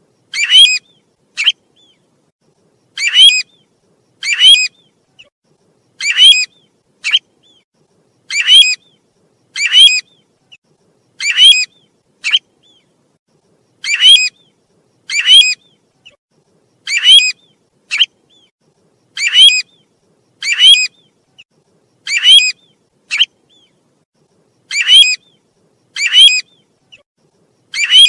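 Looped bird-lure recording of the call of the bird known in Vietnamese as 'tu huýt': a phrase of two loud calls followed by a shorter third note, repeated with machine-like regularity about every two and a half seconds.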